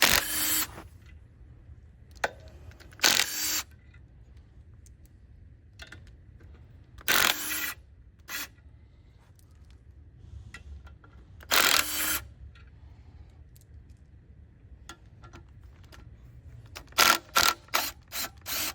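Snap-on cordless power ratchet running in short bursts, working bolts loose: four bursts of about half a second to a second, several seconds apart, then about five quick stabs near the end.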